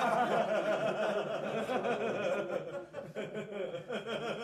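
Laughter, several voices chuckling in reaction to a joke's punchline, thinning out after about three seconds.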